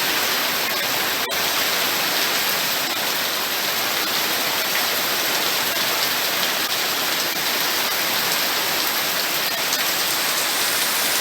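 Heavy rain falling steadily, a dense even hiss of drops on surfaces, with one sharp click about a second in.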